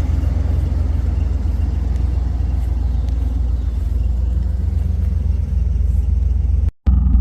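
Chevrolet Camaro Z28's V8 engine running steadily with a deep rumble. The sound drops out for an instant near the end, then carries on the same.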